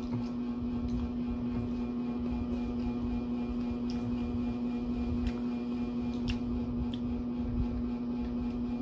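A steady hum with a low rumble, of the kind a fan or appliance makes, runs throughout. Over it come a few scattered sharp crunches from crisp lettuce leaves being chewed.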